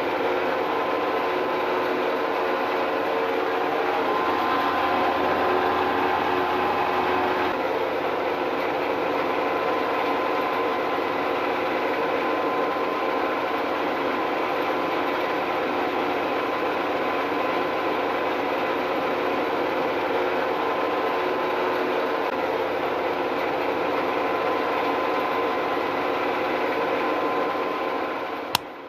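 Small electric motor of a homemade model machine running steadily with a gear rattle, then cutting off abruptly near the end.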